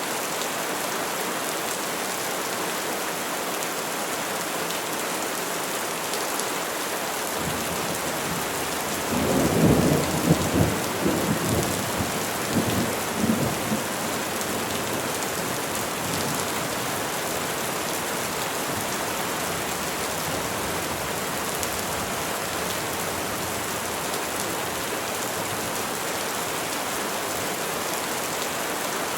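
Steady rain falling on trees, with a low roll of thunder about nine seconds in that rumbles in several swells for around five seconds before the rain alone carries on.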